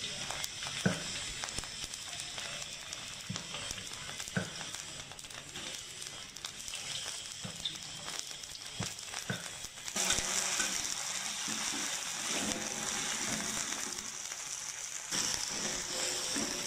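Spice paste and lemongrass sizzling in hot oil in a steel wok, with a few light knocks. The sizzle gets louder about ten seconds in, and a metal spatula stirs the mix near the end.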